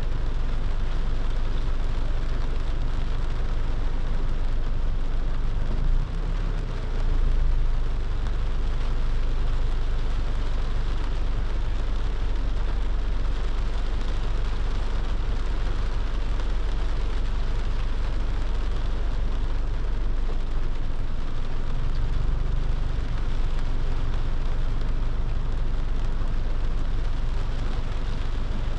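Rain falling on a moving car, over a steady low rumble from the car and road. The low rumble dips briefly about six seconds in.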